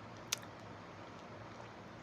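Quiet close-up eating sounds over a steady low hiss, with one sharp click or crack about a third of a second in.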